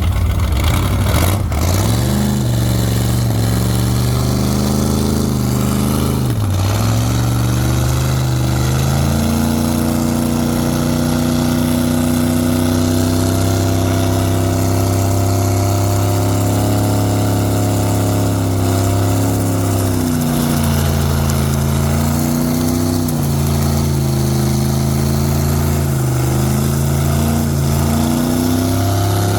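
A vehicle engine revved hard and held at high revs during a burnout on a wet burnout pad. The revs climb about two seconds in, dip briefly near six seconds, climb again and hold steady, then rise and fall repeatedly near the end.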